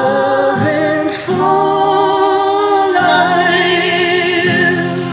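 Two voices singing the slow closing phrase of a worship song as a duet, holding long notes with vibrato.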